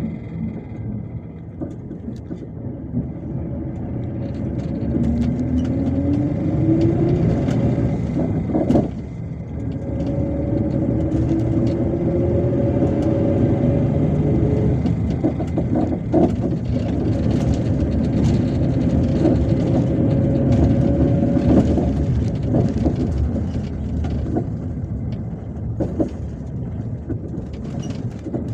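Cabin of a MAZ-257 coach under way: the engine note rises as it pulls, breaks briefly about nine seconds in at a gear change, then rises again and settles to a steady run, over road noise and light rattles.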